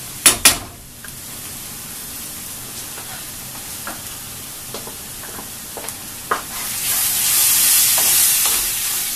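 Onion masala frying in oil in a kadai as Kashmiri chilli paste is stirred in with a spoon: two sharp knocks of the spoon just after the start, light stirring scrapes, and a louder sizzle from about seven seconds in.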